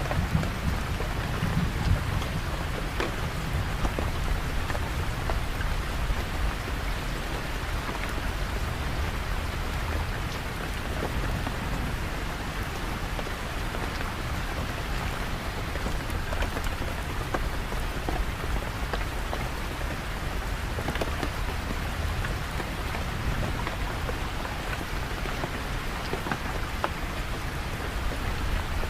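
Steady rain falling and pattering on surfaces, with a low rumble in the first couple of seconds that then fades.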